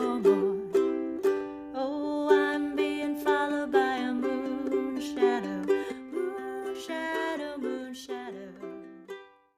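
Ukulele strummed in steady rhythm, chords ringing, winding down to a final strum and stopping about nine seconds in.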